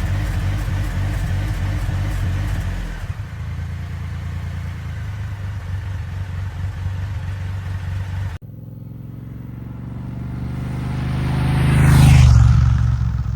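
Motorcycle engines in edited clips: a steady engine running, then a different engine sound after about three seconds, then a sudden cut to a motorcycle approaching and passing close by, loudest about twelve seconds in and falling in pitch as it goes away.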